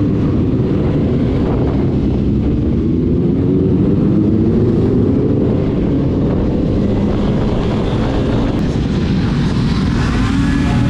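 Motorcycle engine running under way with heavy wind rumble on the microphone; the engine note climbs gently over the first few seconds, then eases off.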